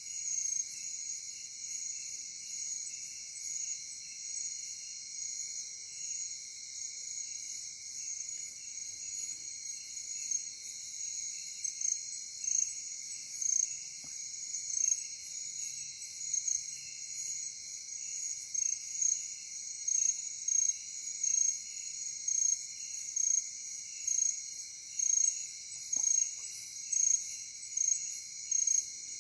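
Night insect chorus of crickets: a steady high-pitched trill, with a louder chirp that repeats about one and a half times a second and becomes more pronounced in the second half.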